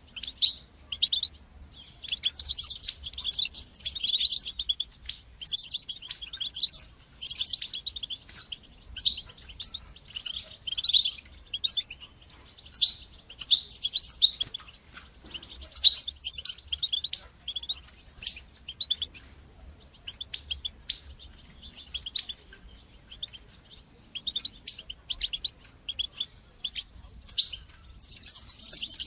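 European goldfinch singing: a rapid, twittering song of quick high chirps and trills in phrases separated by short pauses, sparser in the middle and louder again near the end.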